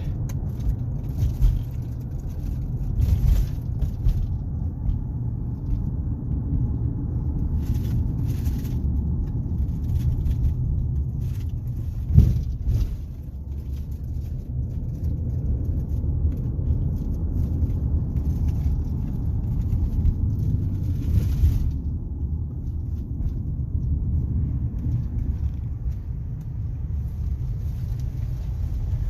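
A car driving: steady low road and engine rumble, with scattered knocks and one sharper thump about twelve seconds in.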